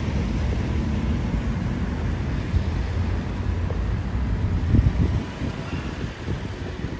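A car's engine rumbling, with wind buffeting the microphone. It grows quieter over the last couple of seconds.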